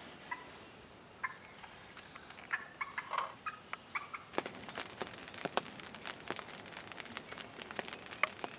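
Wild turkey calling: a quick run of short notes about two and a half seconds in. From about halfway on comes a patter of many sharp ticks.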